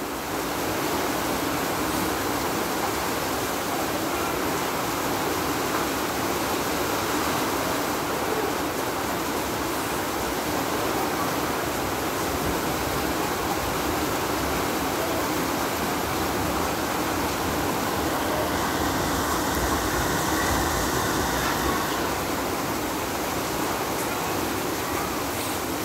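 Heavy storm rain pouring down steadily as a dense, even hiss, swelling slightly about two-thirds of the way through.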